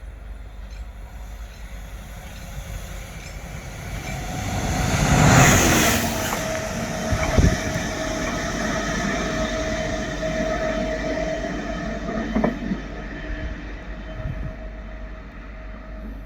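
A train passing by, loudest about five seconds in, followed by a steady whine with a couple of sharp knocks as it goes on.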